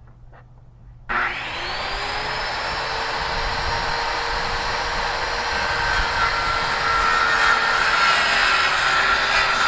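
Electric circular saw switching on about a second in, spinning up, then cutting steadily through a reclaimed wooden deck board under load.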